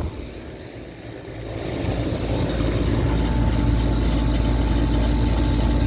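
Rooftop air-conditioning condensing unit running: a steady low hum of fan and compressor that grows louder about two seconds in, then holds steady.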